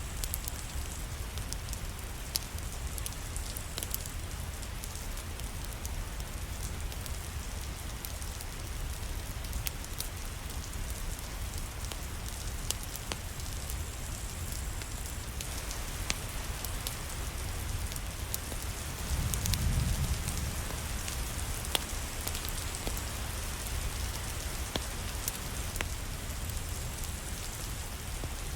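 Steady rain falling with scattered sharp crackles over it, like a wood fire in a fireplace. A low rumble swells briefly about two-thirds of the way through.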